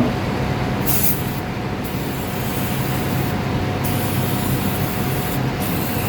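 Aerosol can of tire foam spraying with a steady hiss, broken by short pauses about every two seconds, over a steady low hum.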